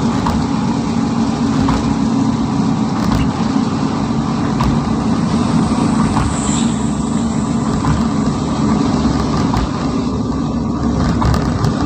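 Steady engine and road noise of a moving ambulance, heard from inside the cabin.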